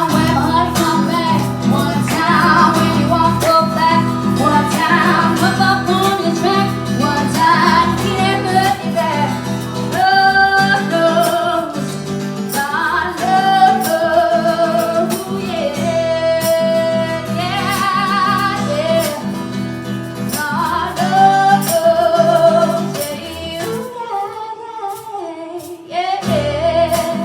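A woman singing live with strummed acoustic guitar. The music thins out about three-quarters of the way through and comes back in near the end.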